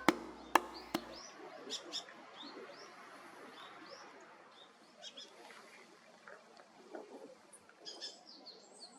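Birds chirping in short, high, arched chirps at irregular intervals, with a denser flurry near the end; three sharp clicks in the first second.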